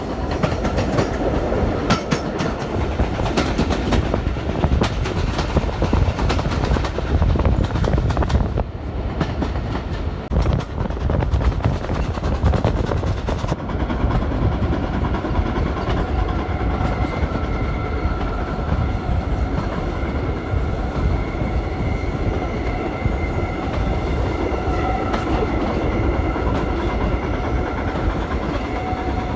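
Jacobite steam train's carriages running along the track, heard from a carriage window: a steady rumble with the clatter of wheels over the rails, the clicks thickest in the first half. A faint high steady tone joins from about halfway.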